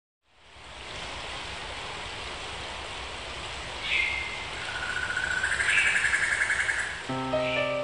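Nature ambience fading in: a steady hiss with birds calling over it: a falling chirp about four seconds in, a rapid trill after it, and another chirp near the end. Piano notes begin just before the end.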